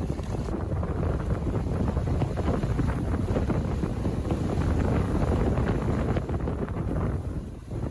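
Wind buffeting the microphone aboard a small sailboat under way, a steady low rumble that eases briefly near the end.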